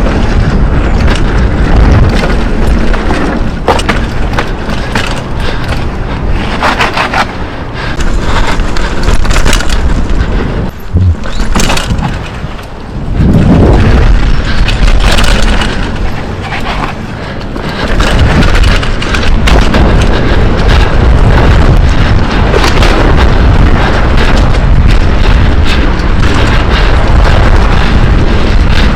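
Heavy wind buffeting on a moving camera's microphone, a loud, low, rushing roar, with scattered rattles and knocks over it. It eases briefly about eleven seconds in, then builds again.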